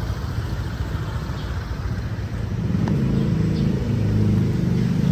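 Street traffic: a motor vehicle's engine running close by, with a low rumble that grows louder about halfway through as it nears.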